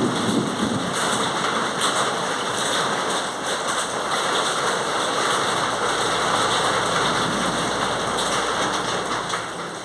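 Steady rain falling, an even hiss of water that drops slightly in level near the end.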